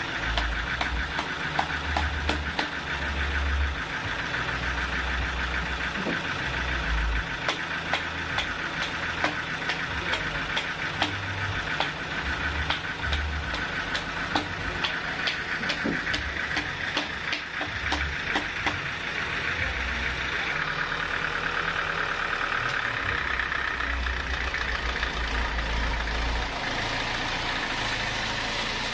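Sawmill machinery running steadily, with frequent sharp knocks and clatters.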